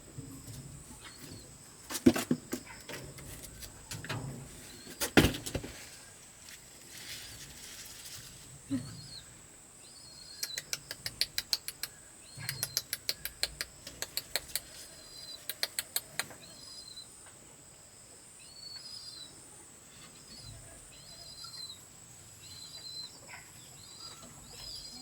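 Small birds chirping on and off over a steady high insect buzz. There are a few sharp knocks early on, and runs of quick clicks around the middle.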